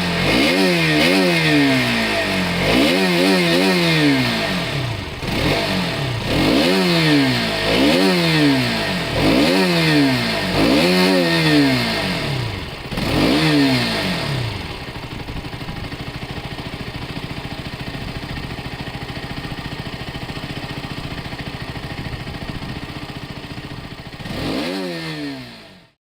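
Motorcycle engine revved in a string of quick blips, each rising and falling in pitch, then settling to a steady idle. One more blip comes near the end, and then the sound cuts off.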